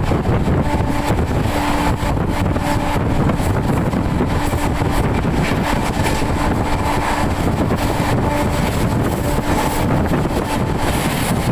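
Express passenger train running at speed, heard from on board: a steady rumble of wheels on the rails with wind buffeting the microphone.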